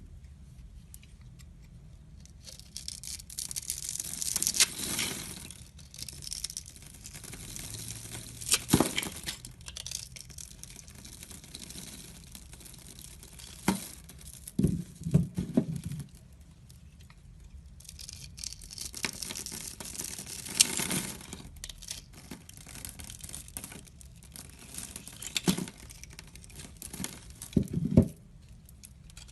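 Knife blade shaving and cutting into a bar of soap: stretches of dry scraping with several sharp clicks and knocks as the blade cuts through and pieces drop.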